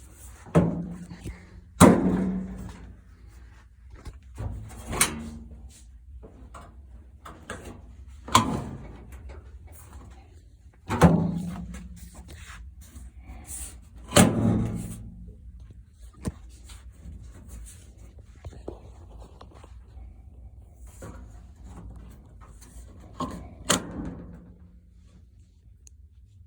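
Sheet-metal parts of a Kenmore gas dryer being knocked and set into place during reassembly: a series of sharp knocks and bangs a few seconds apart, several ringing briefly.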